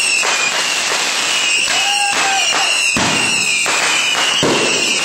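Consumer fireworks going off: a continuous loud hissing crackle, with two sharper bangs in the second half.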